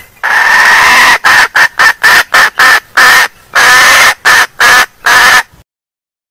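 Female junglefowl calling loudly: one long cackling note, then a quick run of short notes, two more long notes, and another run of short notes, stopping abruptly about five and a half seconds in.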